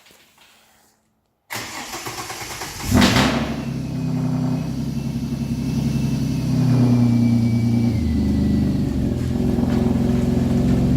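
Car engine cranking and starting about a second and a half in, catching with a brief rev about three seconds in, then idling steadily through a newly plumbed exhaust that sounds like a go-kart.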